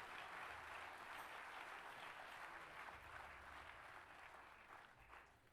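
Audience applause, faint and slowly dying away over about five seconds.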